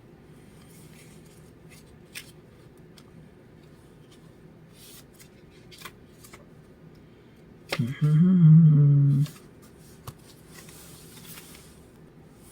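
Faint, scattered clicks and rustles of oracle cards being handled. About eight seconds in, a person hums briefly for about a second and a half.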